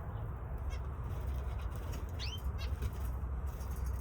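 Budgerigars chirping: a few short calls, the clearest a quick rising-and-falling chirp about halfway through, over a steady low rumble.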